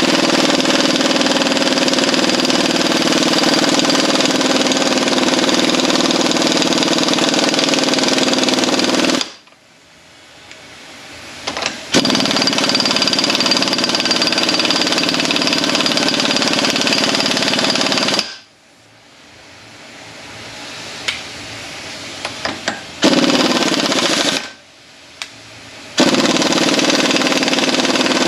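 Impact wrench hammering on a tightly seized nut on the back of a 722.9 automatic transmission, the nut not coming loose. It runs in long bursts of about nine and six seconds, then two shorter bursts near the end, with brief pauses between.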